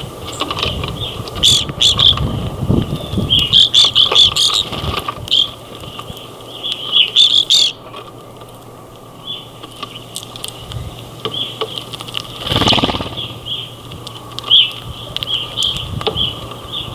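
A flock of winter finches such as grosbeaks calling at a feeder: many short chirps, some in quick clusters. There is a low rumble in the first few seconds and a brief thump about three-quarters of the way through.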